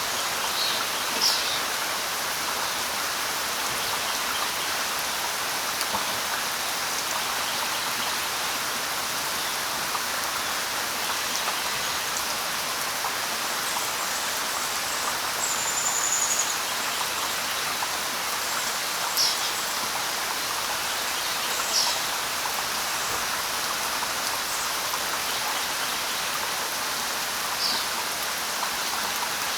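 Steady light rain falling on leaves, an even hiss, with a few short high bird chirps scattered through it and one thin whistle about halfway through.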